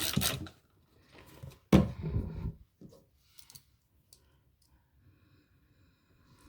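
Aerosol spray can hissing in short spurts onto a pocket knife, stopping about half a second in. Then one loud knock, followed by faint scattered clicks.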